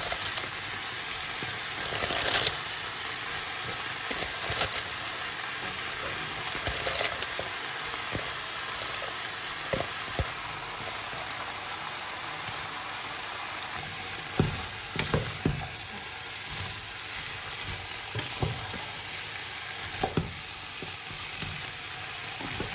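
Vegetables and chicken sizzling steadily in a pot while chopped cabbage is tipped in and stirred with a wooden spatula, with scattered short knocks.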